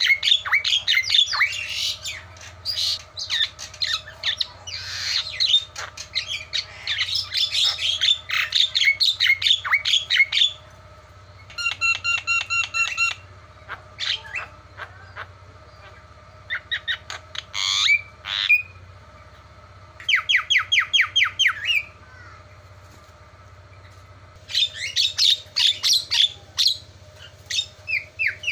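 Javan myna (jalak kebo) giving loud, harsh squawks and chattering calls. The calls come as a dense run for about ten seconds, then as shorter bursts of rapid repeated notes with pauses in between. A faint steady hum runs underneath.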